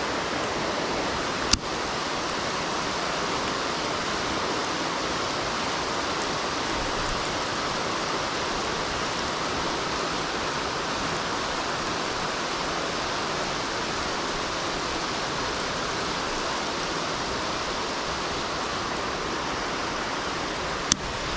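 Heavy rain pouring steadily, a dense even hiss, with a sharp click about a second and a half in and another near the end.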